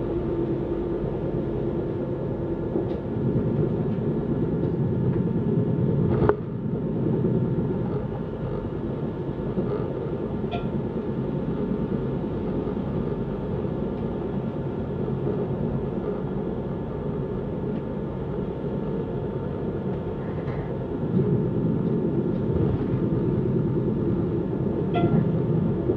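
Passenger train running, heard from inside the coach: a steady rumble of wheels on rails, with one sharp knock about six seconds in and a few faint clicks.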